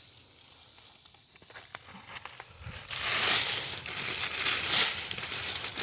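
Dry leaves and plant debris rustling and crackling as they are handled, a few soft clicks at first, then louder and busier from about three seconds in.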